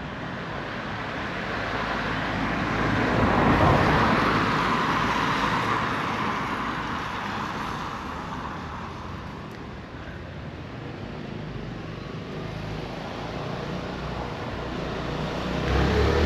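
A car passing on a wet street, its tyre hiss and engine swelling to a peak about four seconds in and then fading away. Another vehicle approaches near the end.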